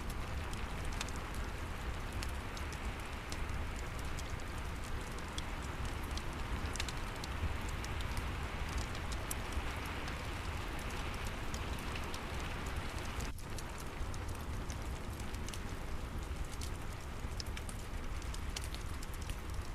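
Steady rain with a low rumble under it, mixed with scattered sharp crackles of a wood fire in a fireplace. The sound dips for a split second just past the middle.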